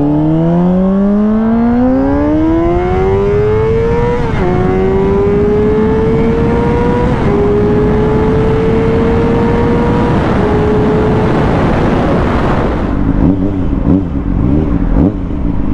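Honda CBR600RR's inline-four engine accelerating hard through the gears. The pitch rises steadily and drops sharply at three upshifts, about four, seven and ten seconds in, then the engine eases off near the end, under steady wind and road noise.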